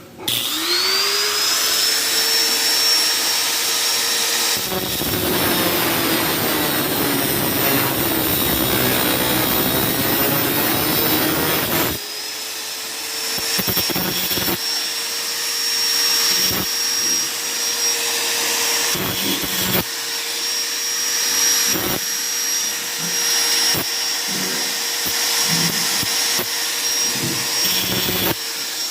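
A small high-speed power tool whines up to speed and cuts through a steel concrete nail for several seconds with a heavy grinding noise. It then runs on unloaded with light scrapes and clicks.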